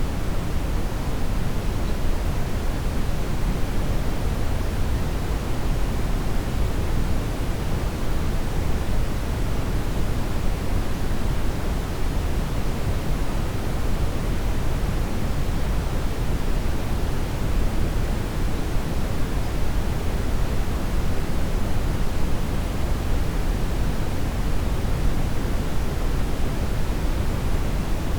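Steady brown noise: an even, deep rushing hiss, strongest in the lows and falling off toward the highs, with no changes.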